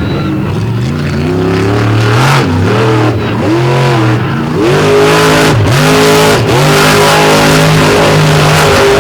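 Monster truck engine revving hard. The revs rise and drop sharply several times, then hold high and steady from about five seconds in.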